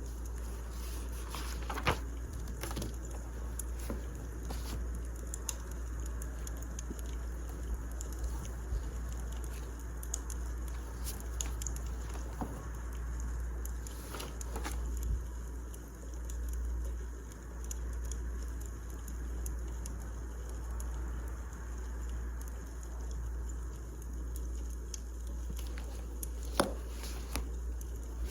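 Wood fire crackling, with scattered small pops and two sharper snaps about two seconds in and near the end, over a steady low rumble.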